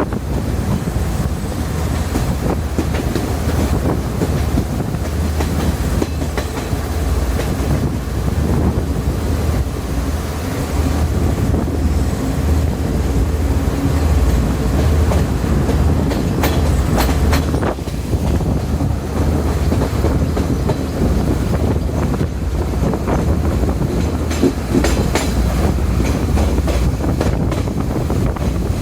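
Diesel multiple-unit express train running at speed: a steady low rumble of wheels on rails, with clickety-clack over rail joints and bunches of sharper clicks about halfway through and again near the end.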